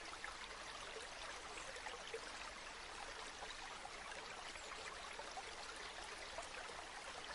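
A river flowing steadily: a faint, even babble of running water.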